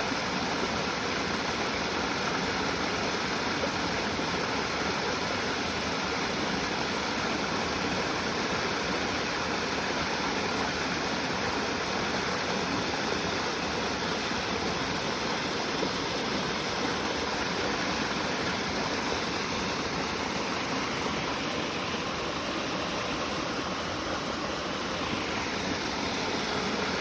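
Small stream flowing steadily, a continuous rushing and babbling of water.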